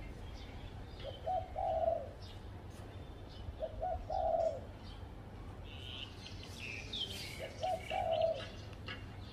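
Spotted dove cooing, three two-part phrases, each a short note followed by a longer one. Small birds chirp faintly and higher-pitched in the background.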